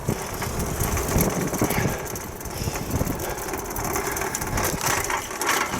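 Wind buffeting the microphone, with the rolling rumble of a bicycle riding along a paved bike path.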